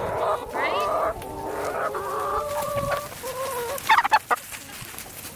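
A flock of laying hens clucking, several calls overlapping, with a louder, sharper burst about four seconds in.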